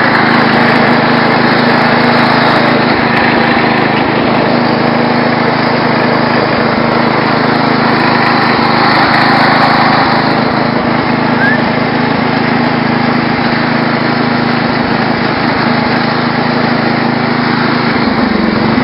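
Small engine of a racing lawn tractor running loud and steady while being driven.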